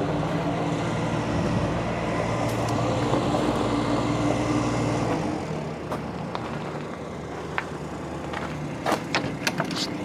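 A John Deere 5055E's three-cylinder turbo diesel idling steadily. About five seconds in the engine sound drops and thins, and a few sharp clicks and knocks come near the end.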